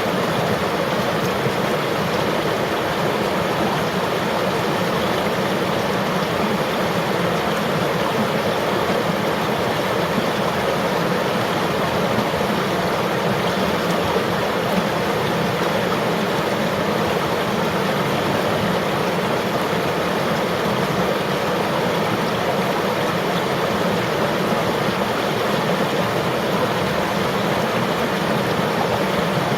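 River water flowing steadily: an even rushing with no breaks or separate splashes.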